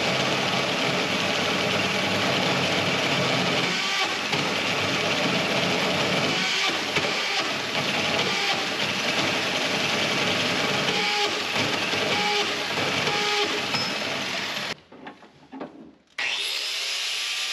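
Tube notcher's hole saw cutting a notch into a steel roll-cage tube: a steady, loud grinding cut that stops about 15 seconds in. Music starts near the end.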